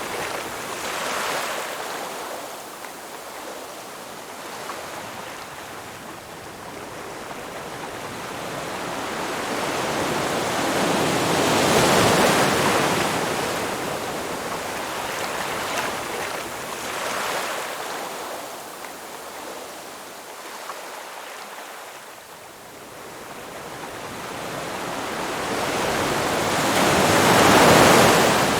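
Ocean surf washing onto a beach: waves swell and break, then hiss back, with the two largest breaking about 12 seconds in and near the end, and smaller ones in between.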